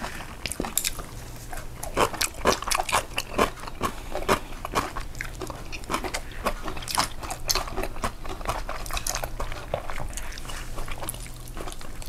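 Close-up eating sounds: a person chewing and biting food, with irregular crunchy, wet mouth clicks.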